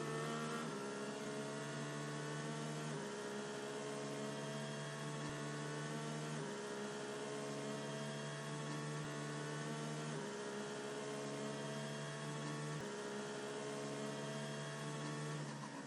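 Synthesized drone background track: several held tones sounding together, all shifting to a new pitch every three to four seconds.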